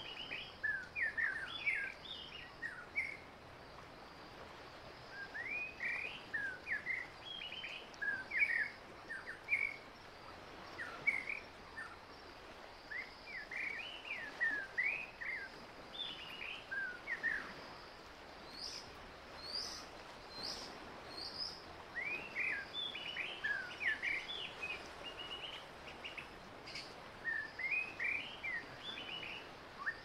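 Songbirds singing outdoors: bouts of quick, slurred whistled notes, repeated in phrases with short pauses between them. A few higher, thinner notes come about two-thirds of the way through, over a faint steady high hiss.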